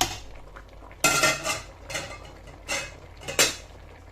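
A spoon scraping and knocking against a cooking pot: one long scrape about a second in, then three shorter strokes.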